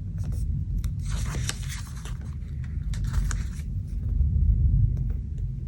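Stickers being peeled off a sticker sheet in two short papery rips, about a second in and about three seconds in. Under them runs a low rumble of thunder that swells near the end.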